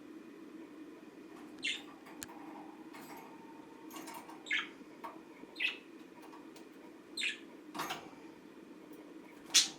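Budgerigar giving short, sharp chirps, about six, spaced irregularly, the loudest near the end, over a steady low hum.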